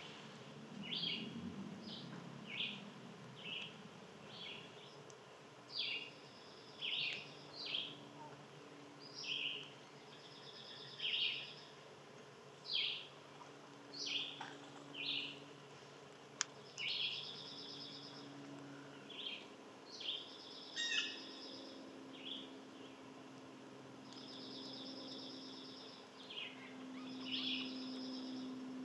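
Wild songbirds calling: a run of short, sharp downward chirps every second or two, with several buzzy trills mixed in.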